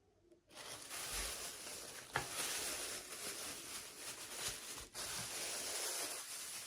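Packaging being handled and opened, a dense rustle that starts about half a second in and stops shortly before the end, with a sharp click about two seconds in.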